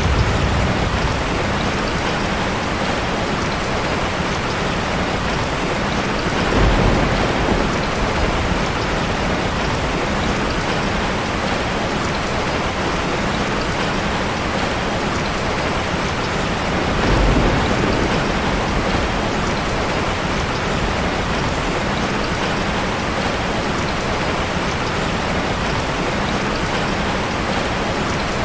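Heavy rain falling steadily, a dense even hiss of drops. It swells briefly twice, once about a quarter of the way in and once past the middle, each time with a deeper low rumble.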